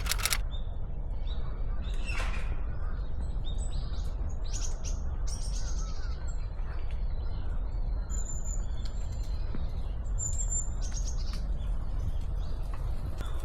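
Small wild birds giving short, scattered chirps and thin high calls, over a steady low rumble.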